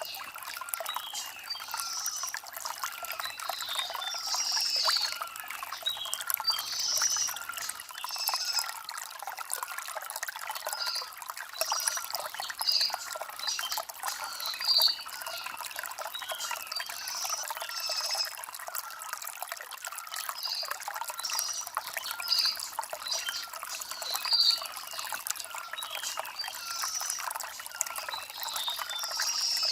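Stream water trickling and splashing over stones, with small birds chirping in short calls throughout.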